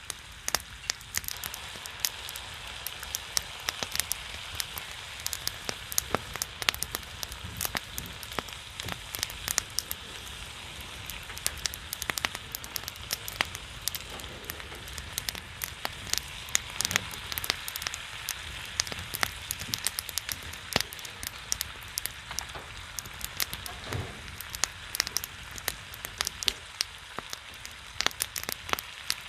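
Pork belly sizzling on a griddle over a pine-wood fire, with a steady hiss and a constant scatter of sharp pops and crackles from spattering fat and burning wood.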